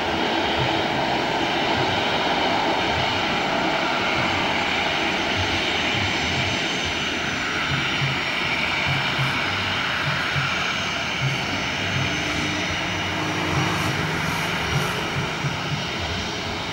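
Jet engines of a Boeing 737-800 airliner (CFM56-7B turbofans) running on a landing, a steady, even rush of jet noise.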